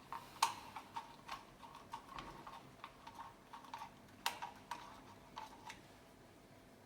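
A series of light, irregular clicks and taps, some with a faint ring, the sharpest about half a second and four seconds in.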